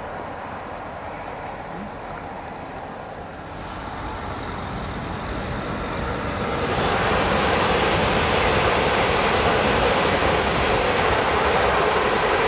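Renfe electric commuter train approaching and passing close by. Its rumble and rail noise build up from about four seconds in and are loud and steady from about seven seconds on, as the cars run past.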